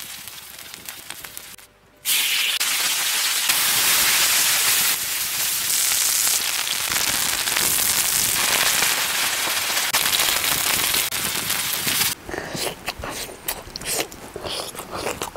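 Fish frying in hot oil in a pan, sizzling loudly and steadily, starting about two seconds in. Near the end the sizzling stops and crunchy biting and chewing follow.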